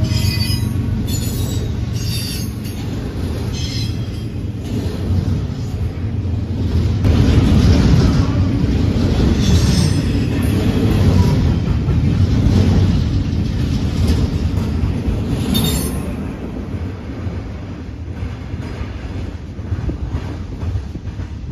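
Double-stack intermodal freight cars rolling past on steel rails: a steady heavy rumble, with regular wheel clicks over the rail joints in the first few seconds. It fades after about 16 s as the rear of the train moves away.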